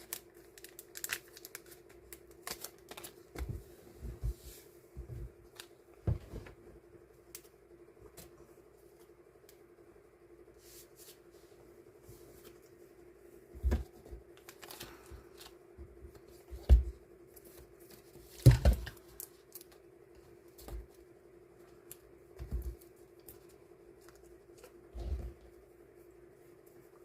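Die-cut stickers being sorted and portioned by hand: scattered snips, paper and plastic rustles and light taps, with a few louder dull knocks on the table about halfway through. A steady low hum runs underneath.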